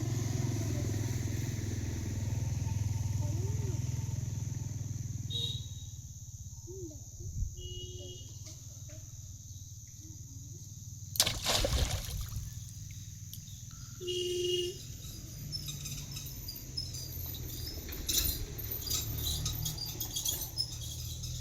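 Outdoor ambience: a steady high insect drone over a low steady rumble, with scattered bird chirps that become more frequent in the last few seconds. About halfway through there is one brief loud noise.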